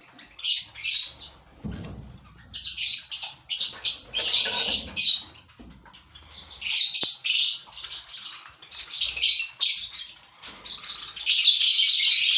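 A colony of lovebirds chattering in bursts of rapid, high-pitched chirps, with short pauses between the bursts; the busiest stretch comes near the end.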